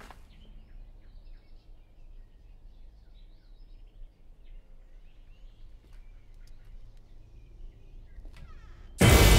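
Quiet room ambience with faint, scattered bird chirps and a few soft clicks, after music cuts off abruptly; loud music comes back in suddenly about nine seconds in.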